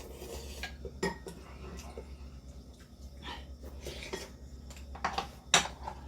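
Eating utensils clinking and tapping against bowls and a pot during a meal of ramyeon: scattered sharp clinks, a strong one about a second in and a quick cluster around five seconds in.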